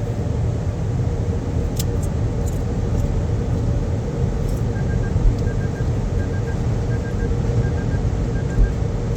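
Car wash tunnel equipment heard from inside the car during the foam stage: a steady low rumble with a faint steady hum. From about halfway, a soft electronic beep repeats about three times every two seconds.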